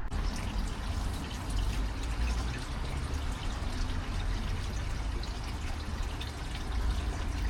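Water pouring and trickling steadily into water.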